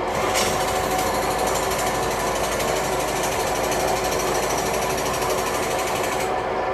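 Factory machinery running with a steady hum and several held tones. A rapid, rattling mechanical clatter starts just after the beginning and stops about six seconds in.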